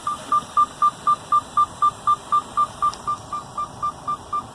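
Electronic beeping: short beeps of a single pitch, about four a second, evenly spaced and growing a little fainter toward the end.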